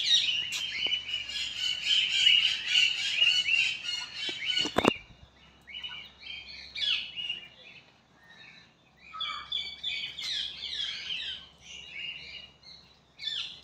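Birds chirping and calling, parrots among them: a dense, continuous chatter, then a sharp knock about five seconds in, after which the calls are sparser, short and harsh.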